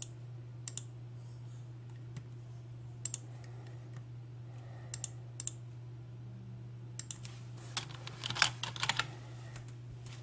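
Computer keyboard and mouse clicks: scattered clicks, several in quick pairs, then a fast run of keystrokes about eight seconds in, over a steady low hum.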